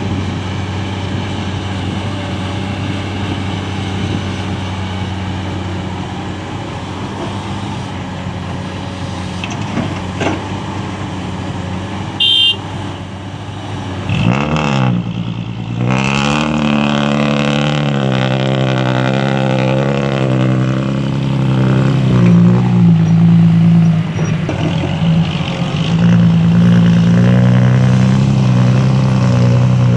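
Heavy diesel engine of earthmoving machinery running steadily, then revving up about halfway through and working under load with a wavering pitch, louder toward the end. A brief high beep sounds just before the revving.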